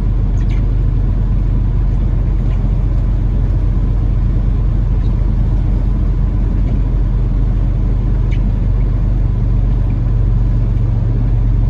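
Peterbilt 579 semi-truck's diesel engine running at low revs, a steady low rumble heard from inside the cab.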